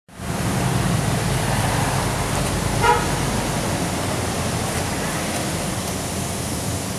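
Yamaha Jupiter Z 115cc single-cylinder four-stroke running steadily at idle through an HKS car exhaust muffler, a low, even rumble. About three seconds in there is a brief higher tone, like a short toot.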